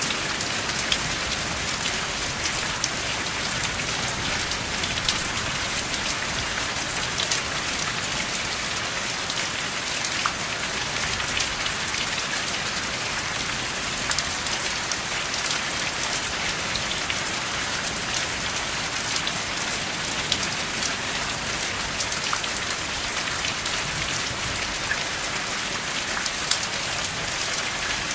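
Steady rain falling, an even hiss with scattered sharp drop ticks and no thunder.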